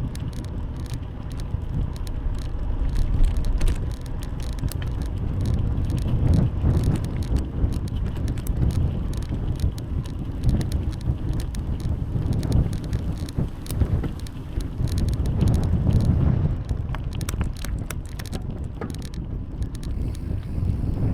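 Bicycle on the move: a steady low rumble of wind and tyre noise, with many small clicks and rattles from the bike that swell and ease as it rolls over the road.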